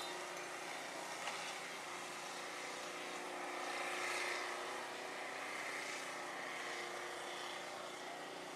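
A steady engine drone heard at a distance under an even outdoor hiss, swelling slightly about four seconds in.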